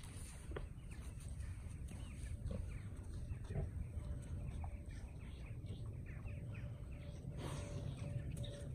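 Birds chirping, many short quick calls scattered over a low steady rumble.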